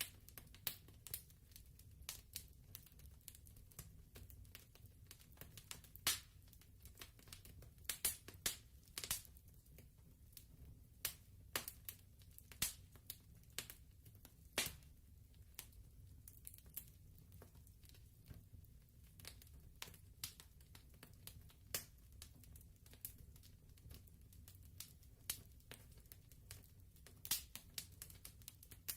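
Wood fire crackling, with irregular sharp pops and snaps over a soft low rumble.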